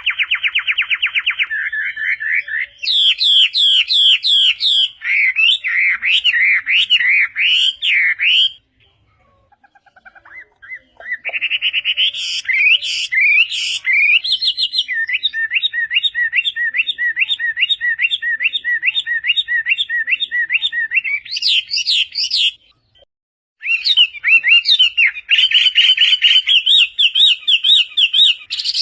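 Chinese hwamei (Melodious laughingthrush) singing loud, varied phrases of clear whistled notes: a fast trill, swooping slurred notes, and long runs of one note repeated quickly. The song breaks off briefly about a third of the way in and again near the end.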